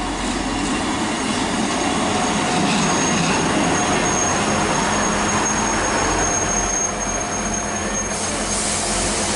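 Class 158 diesel multiple unit running alongside the platform as it brakes to a stop. A thin high squeal holds from about three seconds in to about eight seconds, then a brief hiss near the end.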